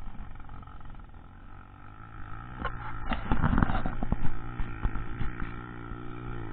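Trail motorcycle engine running under load, growing louder from about two seconds in, with a scatter of sharp knocks around the middle.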